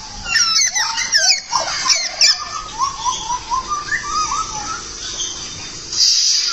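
Caged songbird singing a varied song: a quick run of chirps and sweeping whistles, then a string of short rising notes and a louder burst of chirps near the end, over a steady high hiss.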